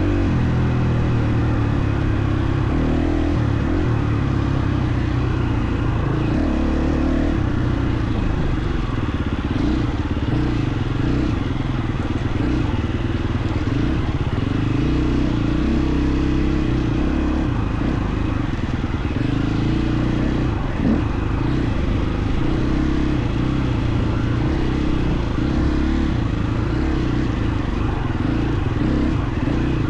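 KTM 350 XC-F's single-cylinder four-stroke engine running steadily under trail riding, its pitch shifting up and down as the throttle and gears change.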